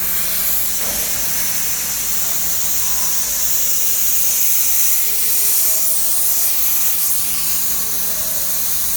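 Hypertherm Powermax125 plasma torch hissing steadily with its rush of air, over a low steady electrical hum.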